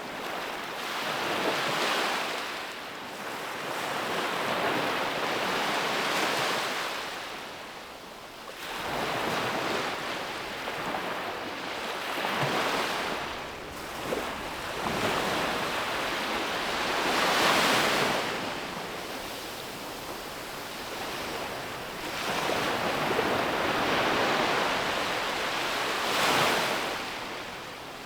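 Sea waves breaking on a beach and washing back, one surge swelling and fading every few seconds, with a louder break about two-thirds of the way through.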